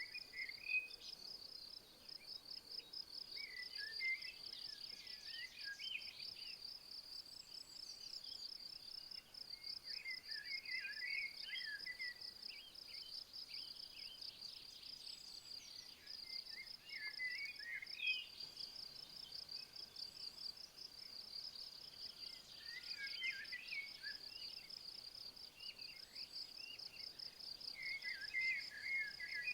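Insects trilling without pause in a high, fast-pulsed buzz, with a songbird singing short warbled phrases every few seconds over it.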